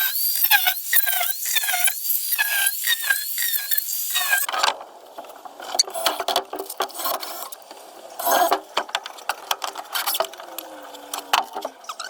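Young chickens peeping rapidly, about three high chirps a second. After about four seconds this gives way to quieter scratching and rustling.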